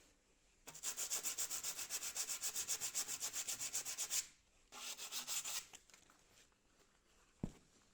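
Rapid back-and-forth scrubbing strokes, about seven a second, on an exhaust flange's mating surface as it is cleaned for a new gasket, followed by a shorter second burst of scrubbing. A single short knock sounds near the end.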